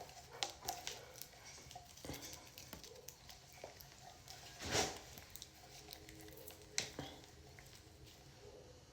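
Quiet handling sounds of someone struggling to open a small container: scattered small clicks and scrapes, with one louder rustle about halfway through.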